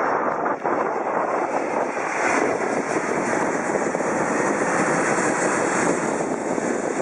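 Jet airliner passing close overhead: a steady rushing noise, its high hiss swelling through the middle and easing toward the end.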